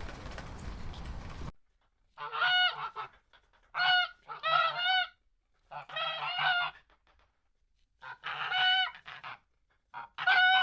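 Waterfowl honking: a series of loud, nasal calls in bursts of one or two, with short silences between. They follow a steady noisy rustle that cuts off about one and a half seconds in.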